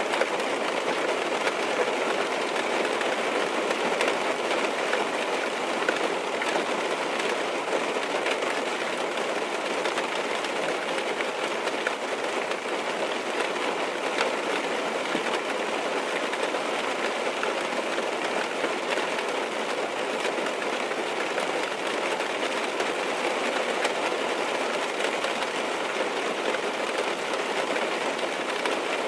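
Steady rain drumming on a car's roof and windows, heard from inside the car as an even patter dotted with tiny drop ticks.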